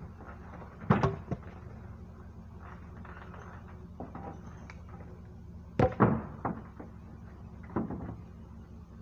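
Heavy thuds as sawmill butt-end logs are dropped off a pickup truck, three of them: one about a second in, the loudest about six seconds in, a lighter one near the end, over a steady low hum.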